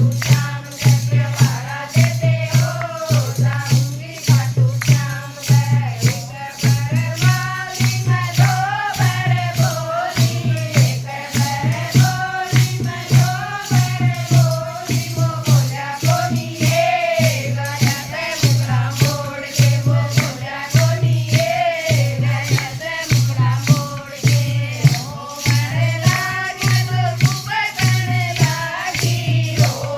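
Haryanvi devotional bhajan: a voice singing over a steady percussion beat of about three strokes a second and a sustained low drone.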